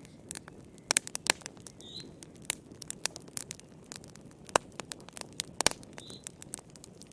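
Wood campfire crackling, with irregular sharp pops over a low steady rush of the flames; the loudest pops come about a second in and between four and six seconds in. A short high chirp sounds twice, about two and about six seconds in.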